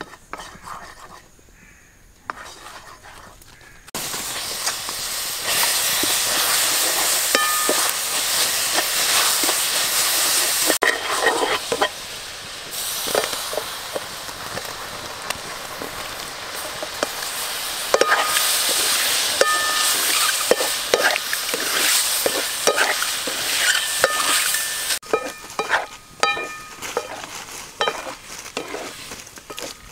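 Chili sauce sizzling in a hot wok as a spatula stirs it and shelled quail eggs are tipped in. The sizzling starts about four seconds in, runs loud and steady with scattered clicks of the spatula, and cuts off suddenly near the end, leaving only a few clicks.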